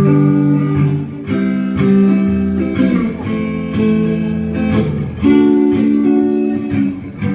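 Live band playing a song's instrumental opening: strummed guitar chords ringing out, with a low bass note joining about two seconds in.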